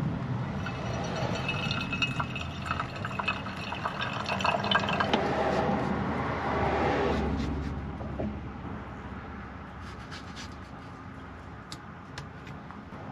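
Liquid poured into a container, its pitch rising as the container fills. The pour fades about eight seconds in, leaving a few light clicks.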